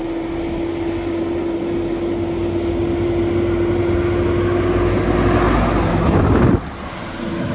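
Heavy truck's diesel engine holding back the truck on engine brake, growing louder, with a steady whining tone over it; the engine noise drops off abruptly about six and a half seconds in, as the engine brake releases.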